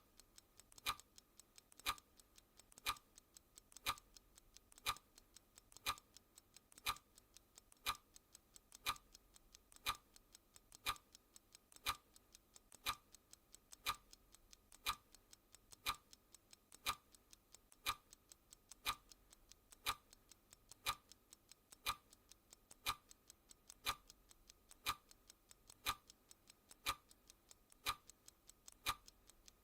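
Clock ticking sound effect, one sharp tick each second, with fainter small ticks between them.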